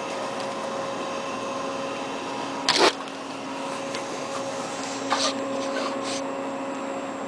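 Steady machine hum with a few level tones, like a refrigeration or ventilation unit, with a short, loud burst of noise about three seconds in and a smaller one about five seconds in.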